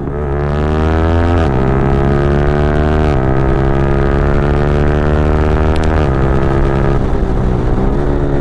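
Yamaha R15 V4m's 155 cc single-cylinder engine through an aftermarket Leovince-replica full-system exhaust, pulling hard with the revs climbing and then dropping sharply on three quick upshifts, the first about a second and a half in. The revs ease and waver near the end.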